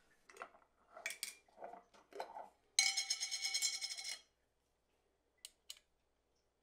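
Clinks and scrapes of a spoon and glassware, with a sudden ringing clink about three seconds in that holds for over a second, then two light clicks.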